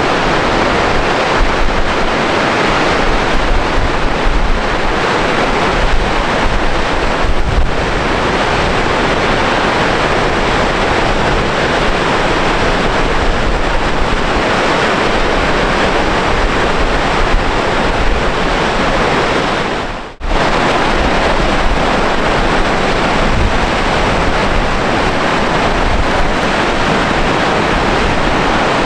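Gullfoss waterfall: the steady, loud rush of a large volume of falling water, with wind rumbling on the microphone. The sound drops out for a moment about twenty seconds in, then comes back.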